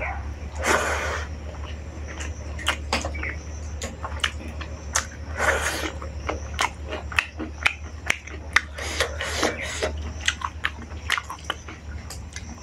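Close-miked eating sounds: wet chewing, lip smacks and sharp mouth clicks as a mouthful of rice and chicken curry is eaten by hand, over a steady low hum.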